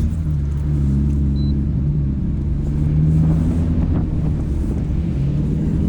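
Infiniti G35's V6 engine running steadily at a near-constant pitch while cruising, with a low rumble.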